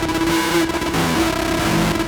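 Novation Circuit groovebox playing a noisy experimental drone patch from the Howl preset pack. A held buzzing tone breaks into repeated notes over a stepping lower sequence, all under a dense wash of noise.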